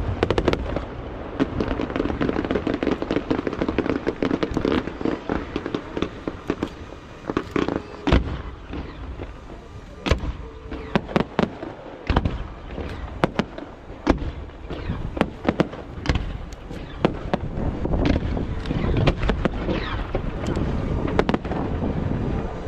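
Aerial fireworks shells bursting in a dense barrage of sharp bangs and crackle. The bangs thin out in the middle and build up again near the end.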